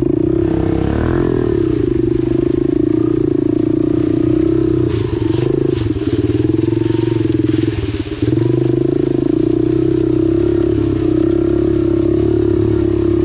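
Dirt bike engine running steadily under throttle, its note dipping and wavering between about five and eight seconds in, with a brief drop in level near eight seconds.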